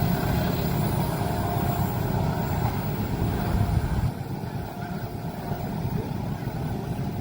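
Train rumbling past at a level crossing; the heavy low rumble drops off sharply about four seconds in and continues more quietly.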